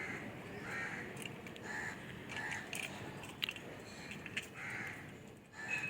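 A crow cawing repeatedly: about five short, harsh caws spaced roughly a second apart, with a few faint clicks between them.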